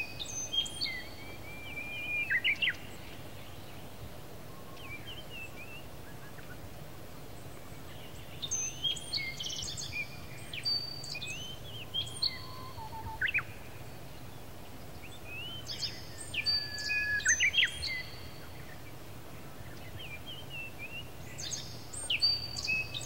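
Songbirds chirping and singing in bouts a few seconds apart, over a faint steady low background hum.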